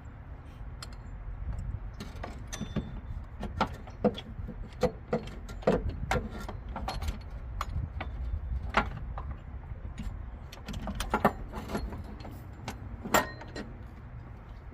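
Irregular metallic clicks and knocks as a serpentine belt tensioner pulley assembly and its bolt are handled and worked into place in a car's engine bay, with one louder knock near the end.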